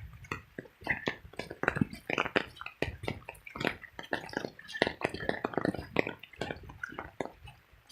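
Boots walking through soaked, muddy ground: irregular wet squelches and sharp taps, several a second.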